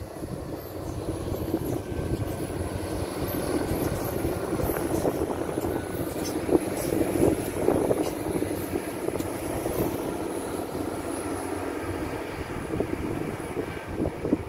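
Irish Rail InterCity diesel railcar departing and passing at speed: engine drone and wheel-on-rail rumble that build to their loudest about halfway through, then ease as the train moves away.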